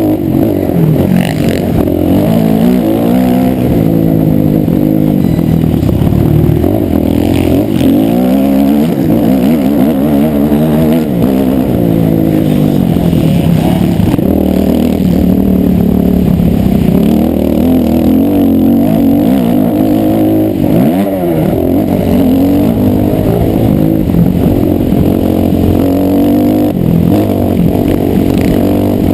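Motocross motorcycle engines running hard, revving up and dropping back over and over as the bikes accelerate and shift. Pitches rise and fall and at times overlap.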